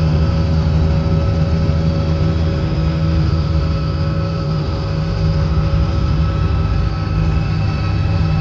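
Helicopter in flight, heard from inside the cabin: a loud, steady drone of engine and rotors with several steady whining tones over it.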